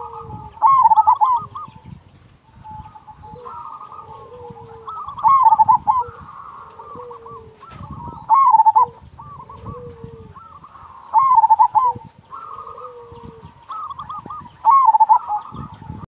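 Zebra dove (perkutut) singing its cooing song in repeated phrases: five loud, warbling bursts about three seconds apart, with softer coos between them. A low rumble runs underneath.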